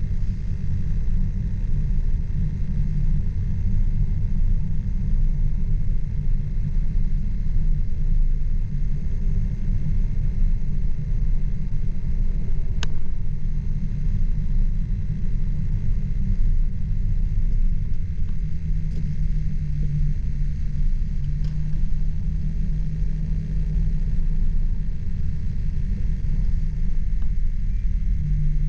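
Car driving on a winter road: a steady low rumble of tyres and engine, with a single sharp click about halfway through.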